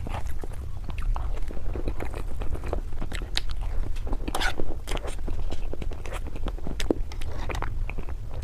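Close-miked biting and chewing of a mousse cake with a chocolate base: soft, wet mouth sounds broken by many irregular small crunches and clicks, over a steady low hum.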